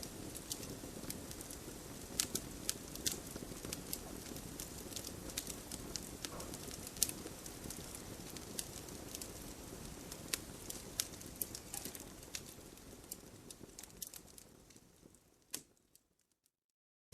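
Campfire wood crackling and popping with sharp irregular snaps over a low steady rush of burning. Near the end the sound fades out to silence for about a second.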